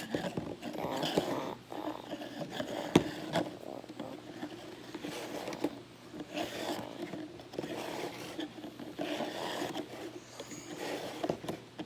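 Hands rummaging through small plastic containers of craft glitter: irregular scraping and rustling with scattered clicks, one sharp click about three seconds in.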